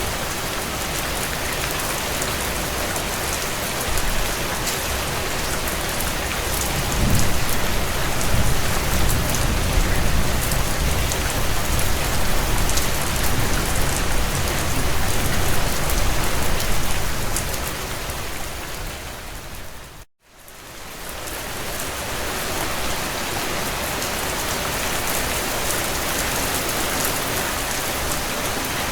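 Heavy rain drumming on a tin roof: a steady hiss thick with small drop ticks. A low rumble swells in about seven seconds in and lasts about ten seconds. Then the rain fades almost to nothing for a moment, about two-thirds of the way through, and fades back in.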